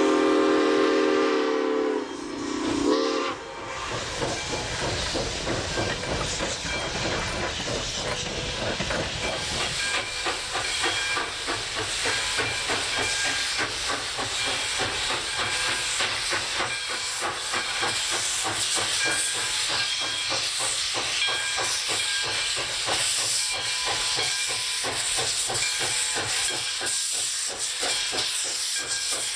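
Steam locomotive whistle sounding a chord, cutting off about three seconds in. After that the steam locomotive works past with steady steam hiss and a quick run of exhaust chuffs.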